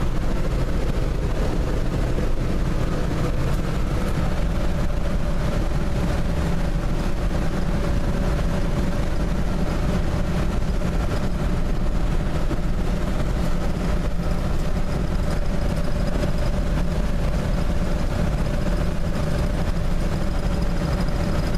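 Dodge D150 pickup's 225 slant-six engine and road noise while driving, a steady low rumble with a thin whine that steps up in pitch about four seconds in.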